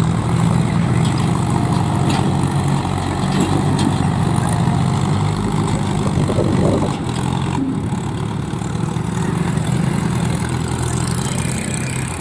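Diesel tractor engine running steadily with a low, even note; the sound drops a little about seven seconds in.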